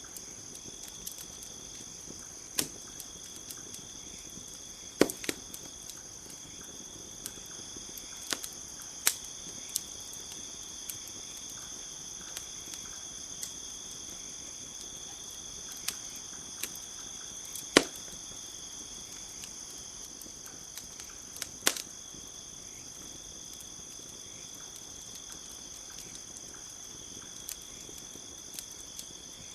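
Campfire crackling, with scattered sharp pops, the loudest about five seconds in and again near eighteen seconds, over a steady high chorus of crickets.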